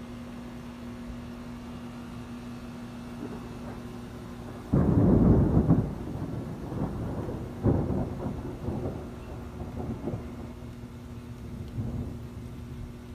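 Thunder: a sudden loud clap about five seconds in, followed by a rumble with further cracks that dies away over several seconds.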